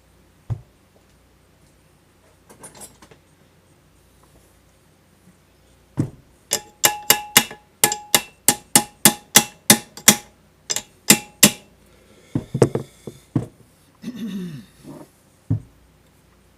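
A hammer striking metal: a quick run of about fifteen ringing blows, three or four a second, with a few single knocks before and after.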